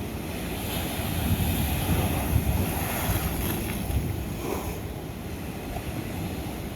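Ocean waves breaking on lava rock. A wave surges in about a second in and washes back out by about five seconds. Wind buffets the microphone throughout.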